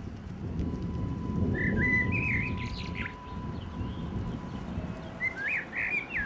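Birds chirping outdoors: two bursts of short, quick warbled calls, about a second and a half in and again near the end, over a steady low rumble.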